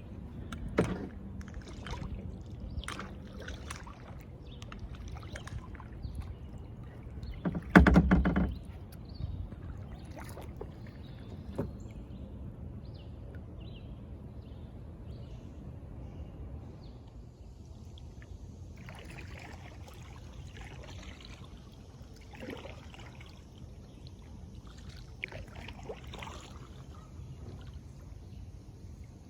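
Kayak drifting on a river: water lapping and dripping against the hull and paddle, with scattered small knocks and splashes and one louder bump about eight seconds in.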